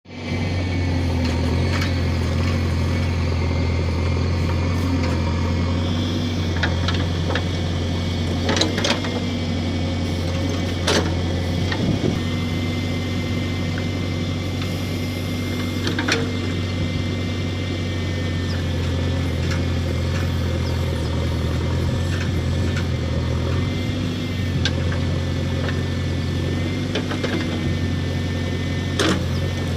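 JCB backhoe loader's diesel engine running steadily, with a few sharp knocks now and then.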